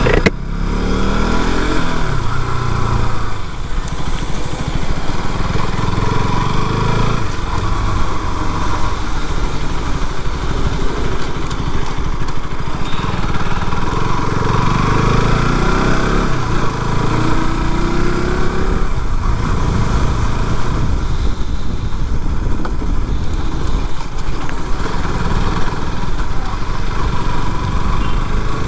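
KTM RC 200's single-cylinder engine running, its pitch rising and falling several times as it is revved.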